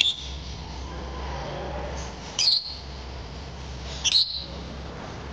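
Pet lovebirds giving short, shrill calls about every two seconds, the last one a quick double call.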